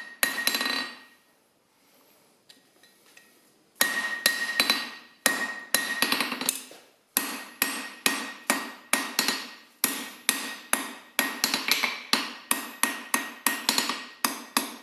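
Hammer blows on a hot steel bar on an anvil, each strike with a ringing note, as the bar is forged into a long two-sided arch. A pause of about three seconds comes near the start, then the blows run steadily at about two to three a second, getting quicker near the end.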